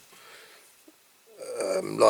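A brief pause in a man's talk: faint breath and room noise, then his voice starts again about a second and a half in.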